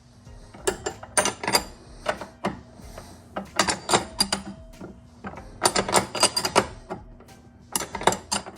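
Hand ratchet wrench clicking in four quick bursts as it is swung back and forth, loosening a sway bar end link nut.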